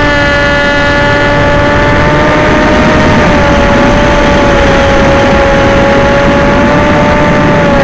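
Electric motor and propellers of an FPV aircraft running at a steady high pitch, with wind rushing over the onboard microphone; the pitch sags slightly a few times.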